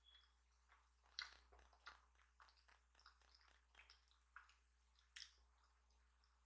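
Close-miked chewing of a mouthful of durian pastry: faint, irregular mouth clicks and smacks, a little louder about a second in and again around five seconds.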